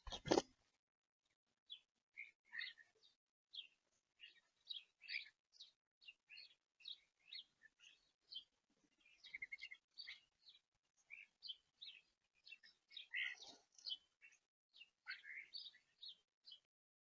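Small songbirds chirping at a feeder: many short, high chirps in quick irregular succession. A brief thump right at the start is the loudest sound.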